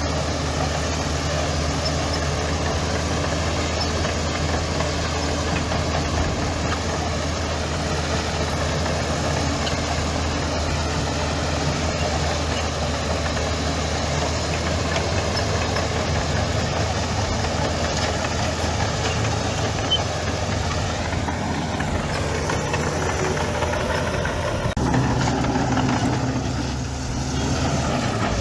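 Heavy diesel engine of earth-moving machinery running steadily, its note shifting and getting a little louder near the end.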